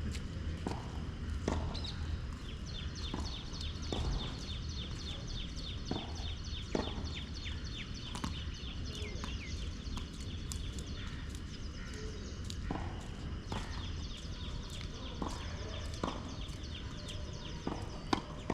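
Tennis balls being struck and bouncing on a court: irregular sharp knocks every second or two. A rapid run of short, high, falling chirps runs from a few seconds in until about the middle, over a low steady rumble.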